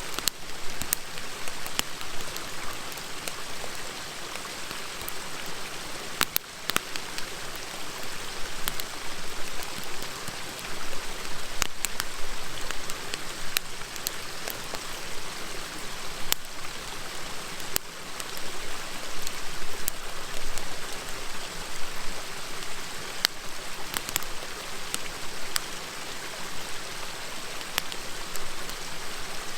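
Wood campfire crackling, with sharp pops at irregular moments, over the steady rush of a river.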